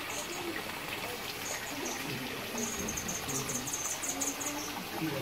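A small bird's rapid series of high chirps, a few single chirps and then a fast run of them for about two seconds. Under it is a steady trickle of water and the faint murmur of people talking.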